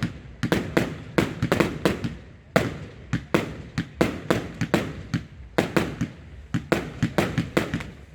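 Fireworks going off in a rapid volley, several sharp bangs a second, each followed by a short echo.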